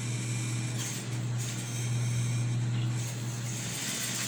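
Steady low electric hum with an even hiss above it.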